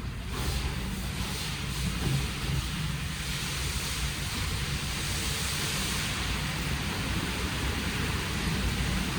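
WashTec SoftCare² Takt rollover car wash spraying water, a steady hiss of spray over a low machine hum; the spray grows louder about a third of a second in and then holds steady.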